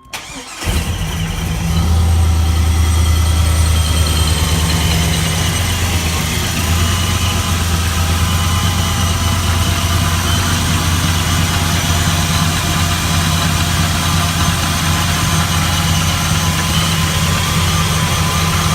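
5.3 L LS (LM7) V8 with a ProCharger supercharger starts about half a second into the clip, then runs at a steady idle with a deep rumble and a faint supercharger whine over it.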